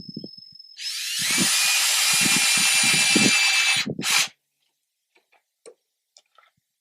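A handheld power tool runs steadily for about three seconds, stops, then gives one short second burst.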